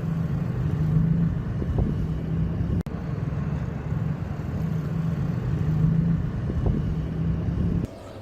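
A vehicle engine running with a steady low drone, broken briefly about three seconds in and stopping just before the end.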